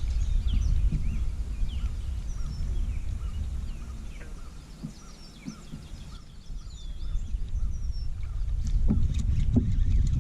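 Outdoor lakeside ambience: a low, uneven rumble that eases off in the middle, with small birds chirping often and high. A few light knocks come near the end.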